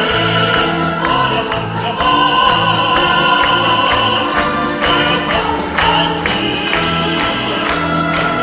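Pops-symphony orchestra playing a song with a choir singing, over a steady beat of about two strokes a second.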